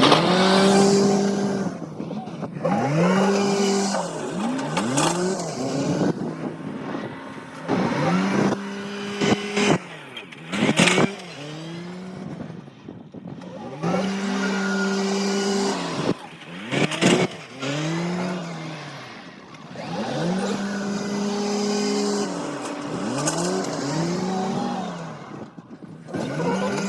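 Diesel engine of a wheel loader or small tractor revving up and down over and over as it works the pile. A few sharp knocks come through, near the middle and again a little later.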